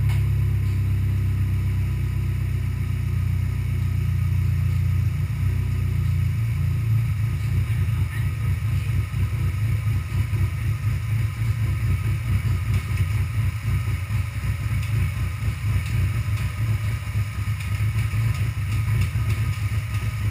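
Freshly rebuilt engine running after start-up: a steady low drone for about five seconds, then an uneven, pulsing running note.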